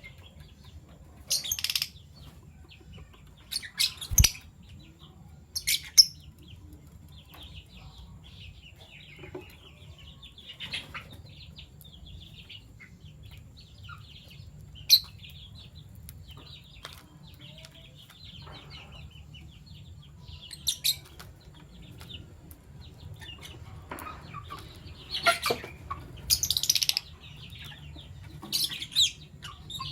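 Fischer's lovebirds calling: loud, shrill chirps every few seconds, with quieter, busy twittering through the middle, over a low steady hum. About four seconds in, a sharp knock cuts through the calls.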